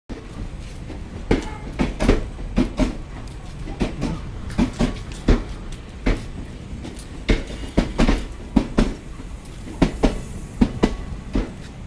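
Passenger train coaches rolling past along a platform, their wheels clattering over the rail joints in sharp, repeated clacks, often in pairs, over a steady low rumble.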